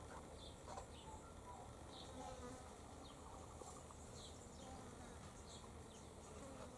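Near silence: faint garden ambience with a light buzzing and small high chirps about once a second.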